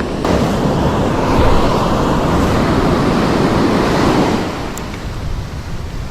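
Ocean surf: a wave breaking and washing up the beach, a broad rushing hiss that swells just after the start and eases off after about four seconds, with wind rumbling on the microphone underneath.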